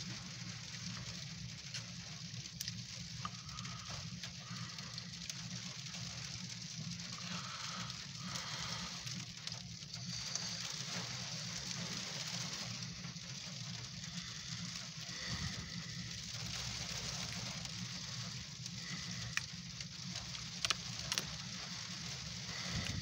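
Rain and freezing rain pattering on a car's roof and windshield, heard from inside the cabin as a steady hiss with scattered sharp ticks, over a low steady hum.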